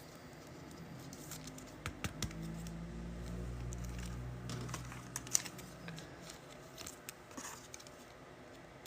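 Trading cards and packs being handled on a table: faint light clicks and taps of card stock. A low hum rises in about two seconds in and fades out around six seconds.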